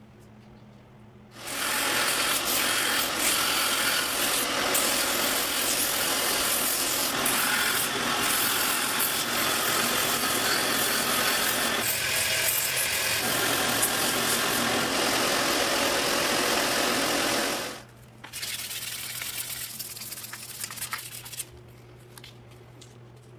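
Steady, harsh abrasive sanding or grinding, like a blade worked against a sanding belt, running for about sixteen seconds and stopping abruptly, then a shorter, quieter stretch of the same sound. A low hum sits underneath in the quieter moments.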